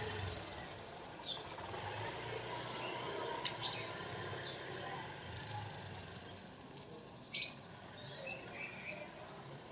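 White-rumped shama (murai) singing: quick clusters of short, high chirping notes starting about a second in and repeating irregularly.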